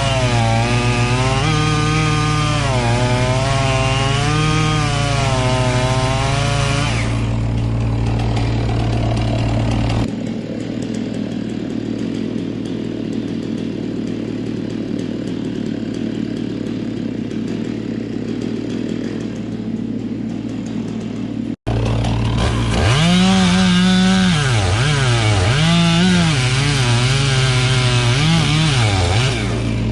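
Chainsaw cutting into a dead Douglas fir, its engine pitch rising and falling as it works under load in the cut. About ten seconds in the sound gives way to a quieter, steadier noise. After an abrupt break the saw is cutting again, its pitch swinging up and down.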